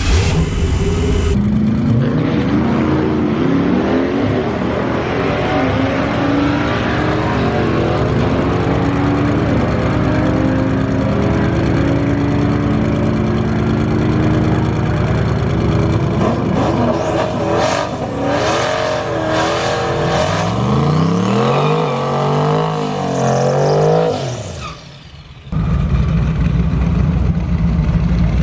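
Twin-turbo Mustang engine running loudly, its note wavering up and down for a long stretch, then revving up in several climbing sweeps. It drops off sharply near the end, and a second later a steady low engine note comes back.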